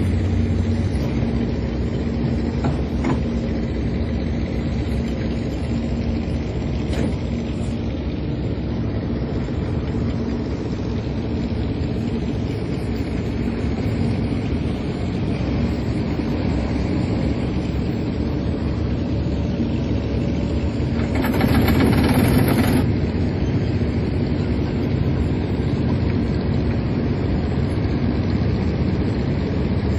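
Fishing boat's engine running steadily with a low, even drone. About 21 seconds in, a louder rushing burst lasts a second or two, then the drone carries on.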